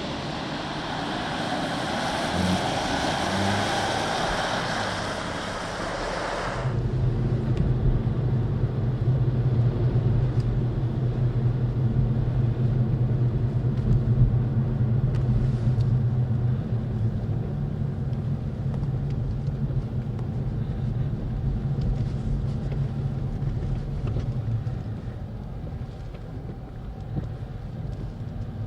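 Audi A5 Avant (B10) prototype driving at speed, a loud rush of engine, tyre and wind noise, which cuts off abruptly about six and a half seconds in and gives way to a steady low engine drone that runs on.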